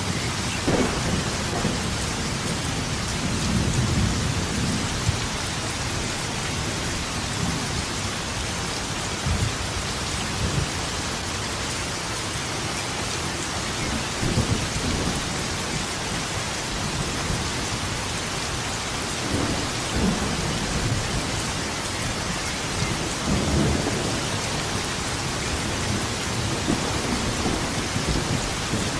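Thunderstorm: steady rain hissing with low thunder rumbling again and again, swelling every few seconds.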